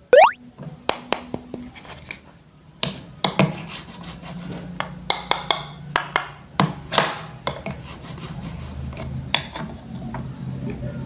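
Wooden toy fruits and vegetables being cut with a wooden toy knife: irregular wooden clacks and knocks, with scraping and rubbing of wood on wood. A brief rising whoosh comes at the very start.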